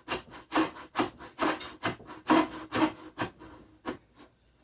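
Coarse-toothed hand hacksaw cutting through wood in steady back-and-forth strokes, about two a second, stopping about four seconds in.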